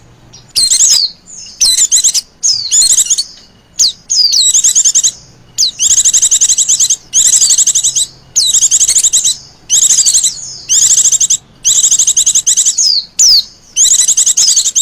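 Female white-eye (Zosterops) calling: rapid high trilled chirps in short bursts, one after another about every second, often with a quick down-slurred note.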